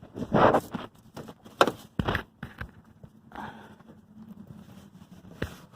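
Scattered knocks and clinks of a hand tool being handled against a car's spin-on oil filter, with a couple of short scrapes, as the filter is loosened.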